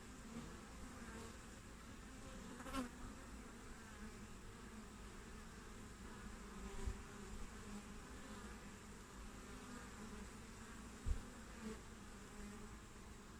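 Honeybees (Apis mellifera) buzzing at a hive entrance: a faint, steady hum of many bees flying in and out. A brief click comes about three seconds in, and a short low thump, the loudest moment, about eleven seconds in.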